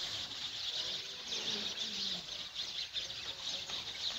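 Small birds chirping all around, a dense run of quick, high chirps overlapping one another.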